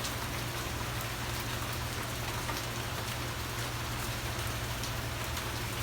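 Heavy rain falling steadily in a downpour, an even hiss of rain with a steady low hum underneath.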